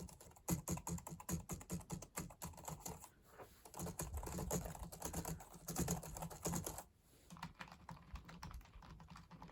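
Rapid typing on a Macally silent wireless keyboard: a quick run of soft key clicks, with the metal-spring sound of the keys going up and down. The typing lulls briefly about three seconds in and again about seven seconds in.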